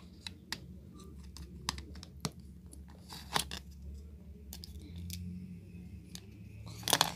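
Plastic Lego bricks clicking and rattling as pieces are handled and pressed together: a scatter of small, sharp, irregular clicks.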